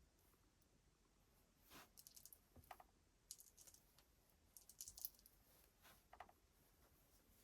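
Near silence broken by several clusters of faint, light clicks and rattles, as of small parts being handled.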